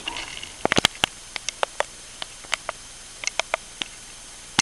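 Irregular sharp clicks and taps, a few a second, bunched together about a second in, over a faint steady hiss.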